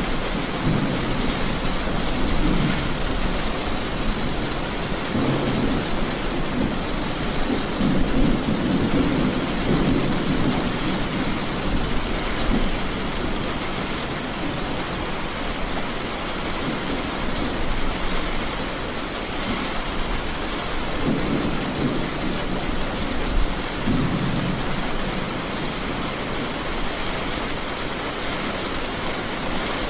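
Steady heavy rain hissing, with low rolling thunder rumbling in and out in several waves, strongest near the start, around the middle and again about three quarters through.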